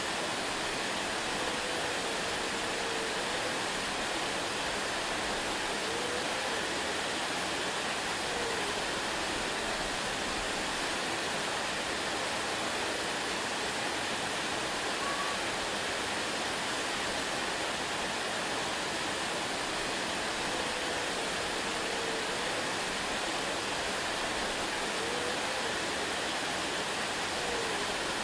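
Waterfall rushing: a steady, even roar of falling water that does not change in level.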